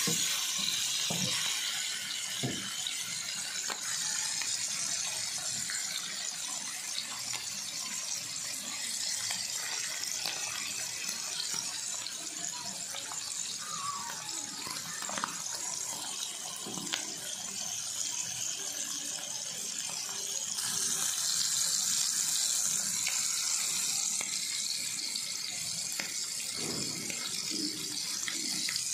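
Liver pieces in masala frying in hot oil in a pan, a steady sizzle. There are a few knocks from the stirring spoon in the first few seconds.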